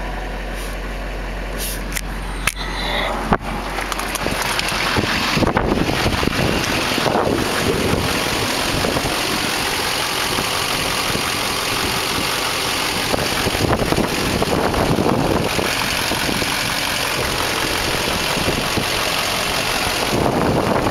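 LBZ Duramax 6.6-litre turbo-diesel V8 running at idle, a steady rough clatter that gets louder about four seconds in, with two sharp clicks in the first few seconds.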